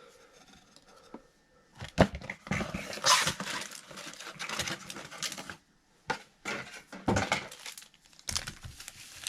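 Plastic trading card pack wrappers being torn open and crinkled by hand, in irregular crackling bursts with a few sharp clicks.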